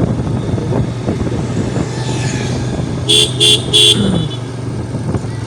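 Motorcycle engine running at a steady pace, with three short horn beeps about a second past the middle, each a fraction of a second long and close together.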